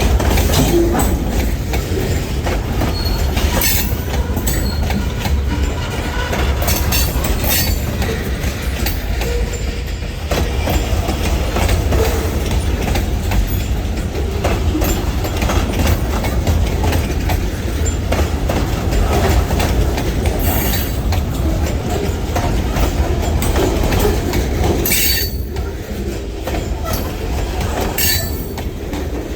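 Freight train rolling past at steady speed, a continuous low rumble with wheels clicking over rail joints and a little faint wheel squeal.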